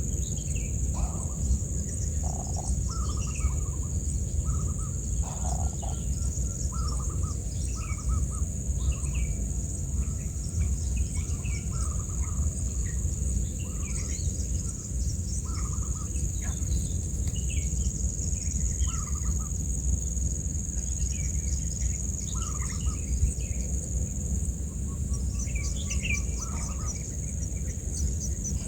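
Wild birds giving many short chirps and calls, one after another, over a steady high-pitched drone and a low rumble.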